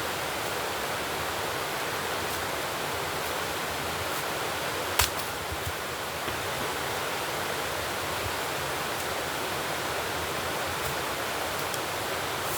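A steady rushing hiss with one sharp click about five seconds in.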